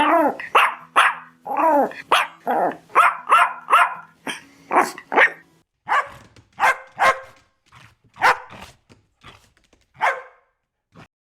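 Dog barking: a quick run of short barks for about the first half, then fewer barks with gaps between them.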